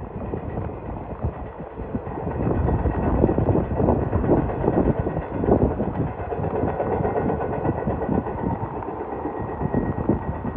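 CSX intermodal freight train's cars rolling past: a steady rumble of steel wheels on rail with rapid, irregular clatter.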